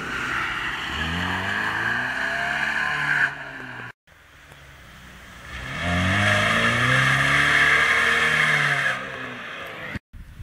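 Ford Escort 1.6 16V four-cylinder engine revving hard during a drift, its pitch rising and falling with the throttle. The sound breaks off abruptly about four seconds in, then the engine comes back and is loudest between about six and nine seconds.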